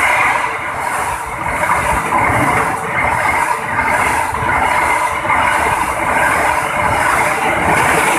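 A train passing close by at speed: a loud, steady rush of wheels on rails, with a regular rhythmic clatter from the coaches going by.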